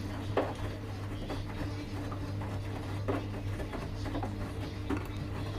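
Washing machines running a delicates wash: a steady low motor hum, with five or six short knocks as the drum turns.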